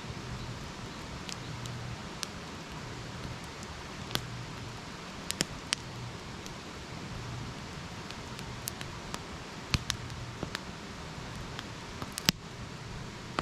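Wood campfire burning: a steady hiss with sharp crackles and pops scattered irregularly through it, the loudest pop about twelve seconds in.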